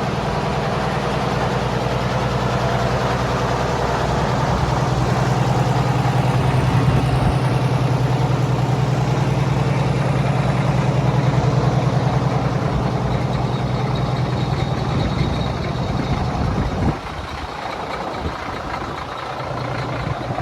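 Heavy diesel engine of an Oshkosh snow blower truck running steadily at idle with a deep, even note. With a few seconds left the deep engine note drops away and the sound becomes quieter.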